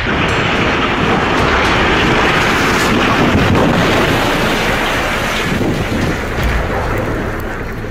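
Building collapsing in a demolition: a loud, long rushing rumble that starts suddenly and eases off after about five and a half seconds.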